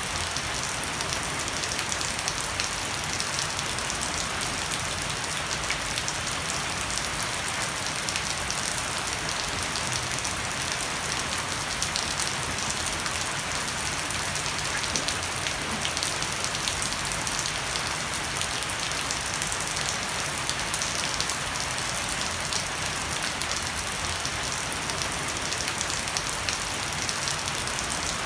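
Heavy rain falling steadily on a wet wooden deck and dense leafy plants, with water running off the edge of a thatched roof: an even, unbroken hiss peppered with many small drop ticks.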